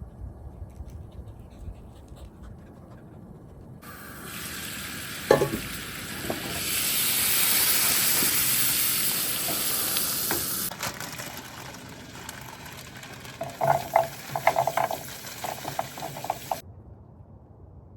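Tater tots frying in butter in a skillet: a sizzle starts about four seconds in, swells and then eases off. Near the end a utensil knocks and scrapes against the pan several times as they are stirred, and the sound cuts off suddenly.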